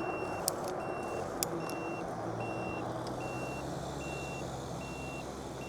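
E-bike turn signal beeping: a short, high electronic beep repeating evenly a little more than once a second, over wind noise on the microphone.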